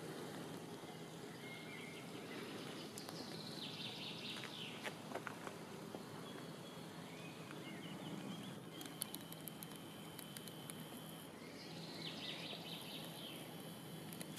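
Songbirds singing over steady outdoor background noise, with a falling trilled phrase about three seconds in and again near the end.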